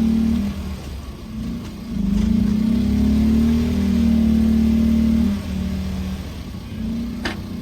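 Subaru Impreza 2.5RS rally car's naturally aspirated flat-four engine under power at steady revs. It eases off about half a second in, picks up again with rising revs about two seconds in, holds, and eases off again just past five seconds.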